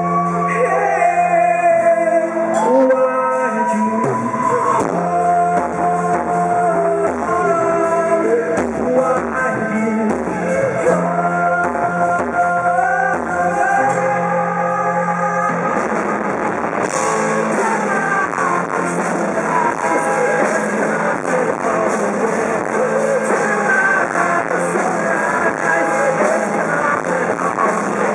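Live rock band performing, a male vocalist singing over guitars, bass and drums. About halfway through, the singing gives way to a denser full-band instrumental passage with crashing cymbals.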